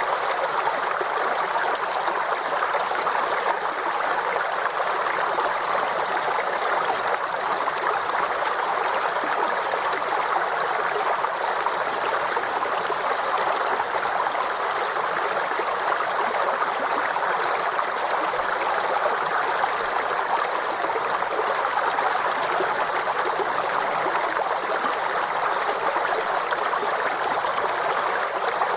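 A small forest stream babbling and trickling steadily, with no change in flow.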